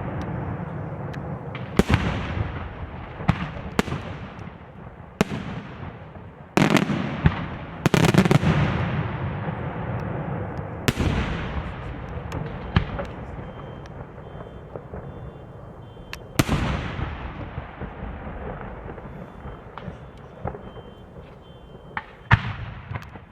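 Fireworks display: about a dozen sharp bangs of bursting shells at irregular intervals, each followed by a long rolling echo. They come thickest in the first half and thin out toward the end.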